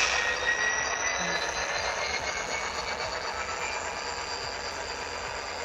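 Model GP40 diesel locomotive running along the layout's track: a steady hum with a faint high whine, slowly getting quieter.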